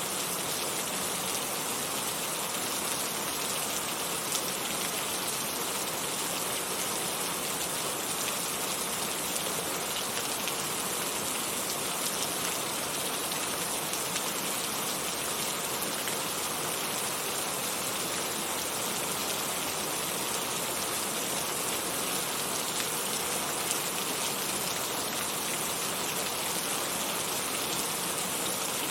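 Heavy rain falling steadily, a dense even hiss of countless drops with faint patter on a surface.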